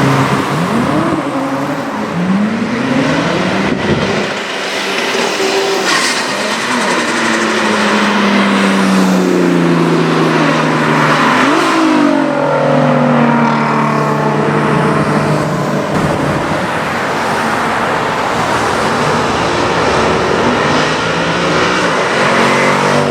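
Loud performance-car engines revving and accelerating hard, the engine note repeatedly climbing and dropping, with a steadier held note for a few seconds in the middle.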